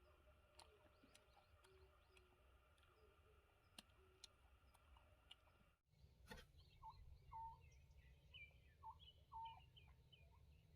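Near silence, with a few faint clicks. After an abrupt break about halfway through, faint short bird chirps repeat every half second or so.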